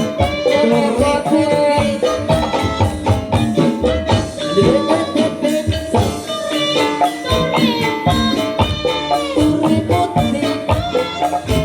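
Live jaranan dangdut music: tuned percussion and drums play a busy, steady rhythm, with melodic lines that slide in pitch above it.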